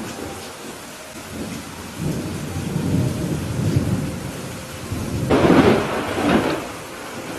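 Steady rain with rolling thunder: a low rumble builds about two seconds in and peaks in a louder, sharper clap near the end before fading back to the rain.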